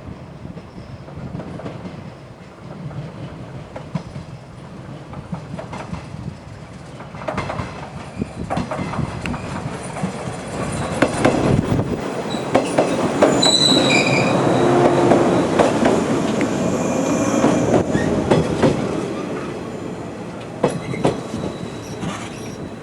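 A train running past on jointed track, its wheels clicking over the rail joints. It grows louder toward the middle, with a brief high wheel squeal, then eases off.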